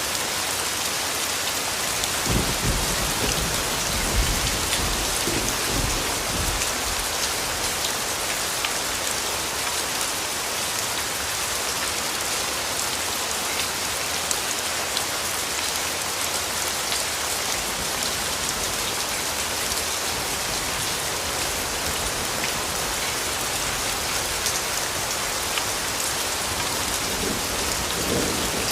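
Steady rain pattering down, with a low rumble of thunder about two seconds in that lasts several seconds, and a shorter, weaker rumble near the end.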